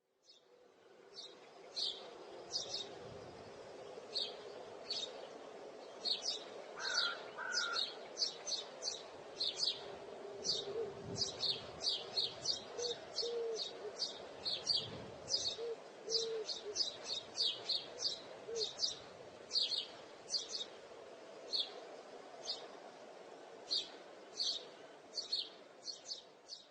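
Songbirds chirping: a steady stream of short, high chirps, several a second, over a faint steady background hum. A few lower short calls come in around the middle.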